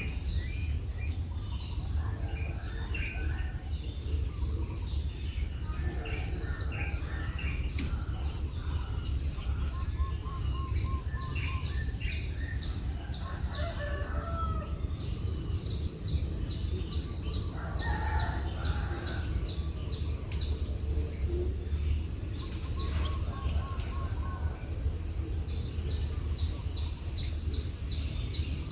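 Birds calling: runs of short, high calls repeated about four times a second, mixed with scattered chirps, over a steady low rumble.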